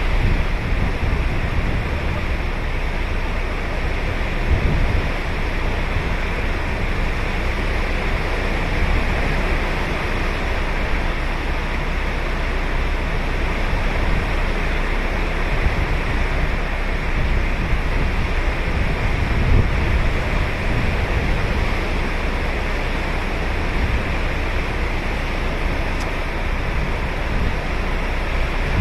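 Ocean surf on a beach: a steady wash of breaking waves with a low rumble, swelling slightly now and then.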